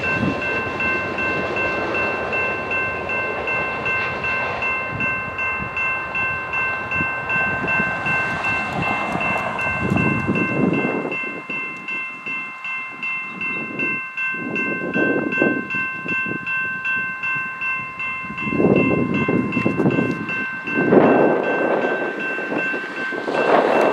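Freight train cars rolling past a grade crossing with a steady rumble, while the crossing's electronic bells ring on. About halfway through the rumble thins out to gusty, uneven surges.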